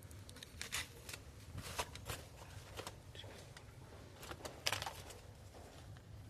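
Paper sugar sachets being torn open and handled: a string of short, irregular rips and crinkles, the sharpest a little under a second in and near the five-second mark, over a steady low hum.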